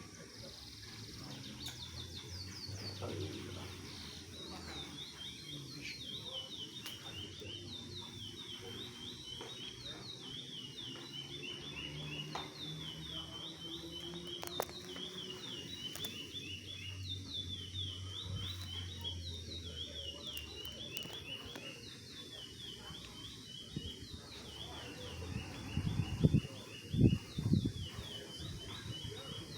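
Caged songbird singing in a song competition: a fast, continuous string of repeated high, downward-sweeping notes. A few loud low thumps near the end.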